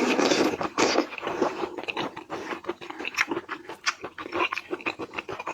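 Close-miked eating sounds of shrimp being bitten and chewed: wet smacking and crunchy clicks, irregular and rapid, loudest in a dense burst right at the start.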